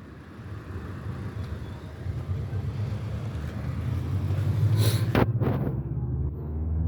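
Car driving, its engine and road noise making a steady low rumble, with a few short, sharp noises about five seconds in.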